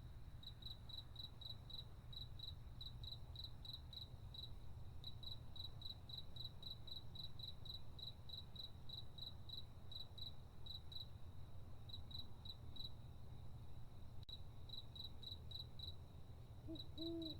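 Crickets chirping steadily at about three or four high chirps a second, over a faint low rumble. The chirping pauses briefly two-thirds of the way through. Just before the end a short, low, arched call begins.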